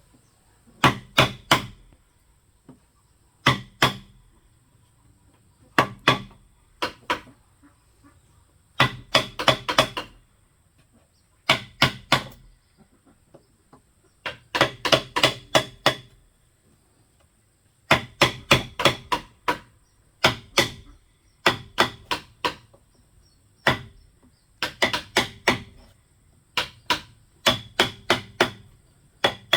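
Bamboo being struck hard with a hand tool, chopped or hammered, in short runs of two to six quick, sharp blows with a pause of a second or two between runs.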